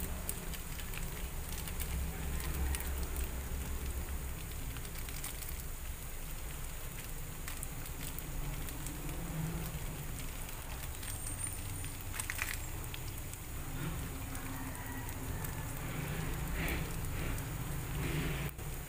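Chopped onions and crumbled burger patty frying in oil in a nonstick pan, sizzling steadily with scattered crackles and pops.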